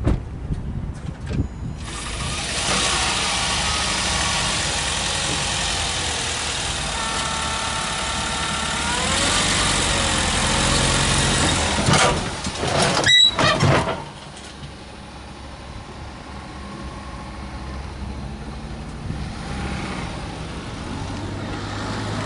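1997 Ford F-250 pickup engine running under load as the truck is driven off a tow dolly, loud for about twelve seconds with a few sharp clunks near the middle, then dropping to a quieter steady idle.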